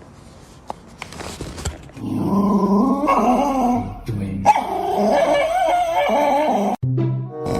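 A dog vocalizing: a run of wavering, pitch-bending whines and yips that starts about two seconds in and cuts off abruptly near the end, after a couple of seconds of faint clicks and rustling.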